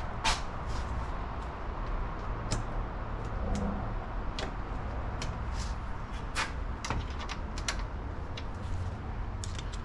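Irregular light clicks and knocks of hand tools and car parts being handled, over a steady low background hum.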